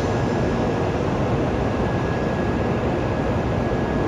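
Shinkansen bullet train at a station platform: a steady, even noise, heaviest in the low end, with a faint steady high whine over it.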